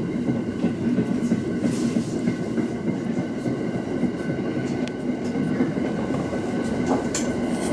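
Local train running along the track, heard from the front of the car: a steady rumble of wheels on rail with a faint steady whine, and a couple of sharp clicks from the wheels and track.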